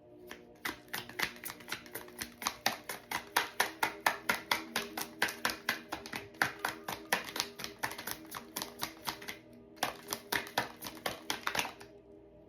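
A deck of reading cards shuffled by hand: a quick run of card slaps, about four or five a second, with a short pause about ten seconds in. Soft background music with held tones plays underneath.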